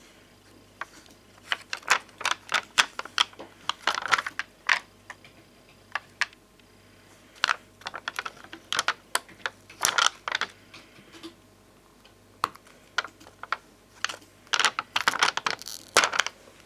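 Glossy, hard-domed bonbon drop and ohajiki stickers being tapped and clicked, in irregular quick clusters of sharp taps with short pauses between.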